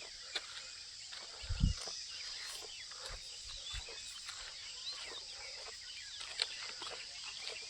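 Birds chirping over a steady high background drone, with a couple of low thumps about a second and a half in.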